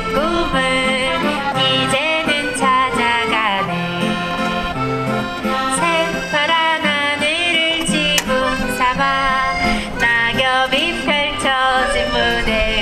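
Accordion playing the melody of a yodel song, with steady band accompaniment beneath it.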